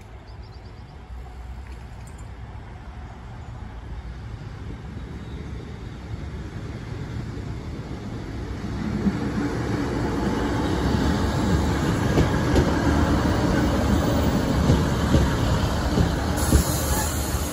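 Northern Class 156 diesel multiple unit approaching and running over a level crossing. The diesel engine and wheel-on-rail noise grow steadily louder, rising sharply about nine seconds in, with repeated wheel clicks over the rails as the train passes.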